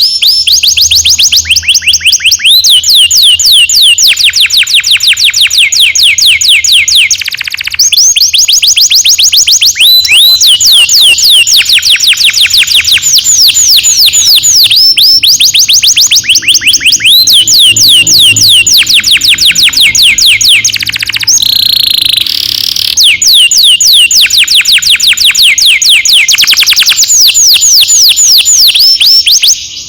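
Domestic canary singing long rolling trills: fast runs of rapidly repeated, high, down-sweeping whistled notes in long phrases, broken by brief pauses. About two-thirds of the way in there is a harsher, buzzier passage.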